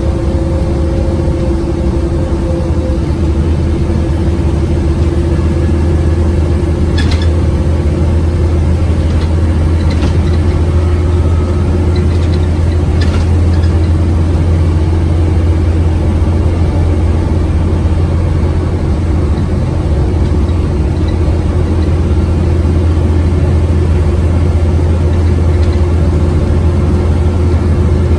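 Scania OmniCity bus's diesel engine running steadily at an even speed, a loud unchanging low drone, with a few light clicks or rattles in the first half.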